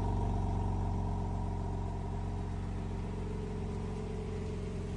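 2024 BMW M3 Competition xDrive's twin-turbo inline-six idling steadily, the level easing slightly lower over the few seconds.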